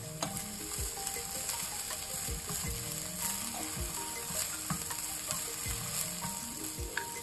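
Bean sprouts and red bell pepper sizzling in a hot frying pan with a steady hiss while a metal spoon stirs and tosses them.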